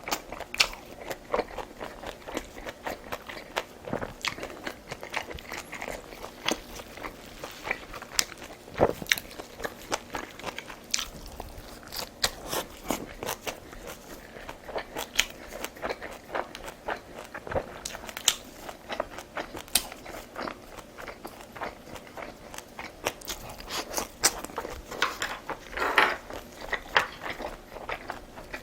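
A person eating close to the microphone: chewing and crunching food, with many irregular sharp clicks.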